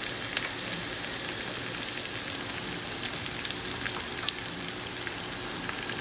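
Cubed potato and eggplant frying in oil in a nonstick pan: a steady sizzle with scattered small pops and crackles.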